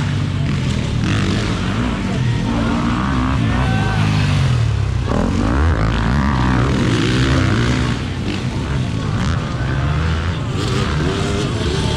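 Several dirt bike engines racing, revving up and down over and over as they work through the track.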